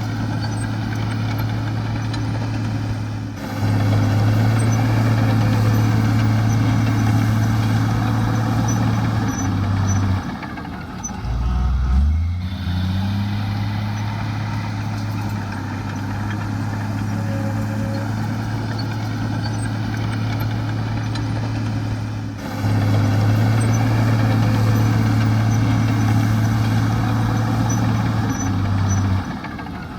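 Heavy diesel engine of earthmoving machinery running, a steady drone that steps louder about three seconds in. Around ten to twelve seconds in, the engine speed drops low and climbs back. The same pattern of louder running and a drop and rise in pitch comes again near the end.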